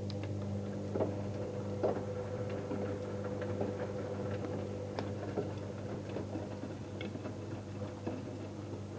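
Electrolux EWF front-loading washing machine running: a steady motor hum while the drum turns, with scattered light clicks and ticks from the tumbling load.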